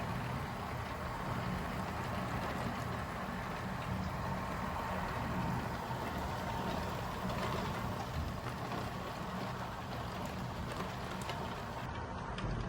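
Steady thunderstorm rain, an even continuous hiss with a low rumbling layer underneath and no thunderclap.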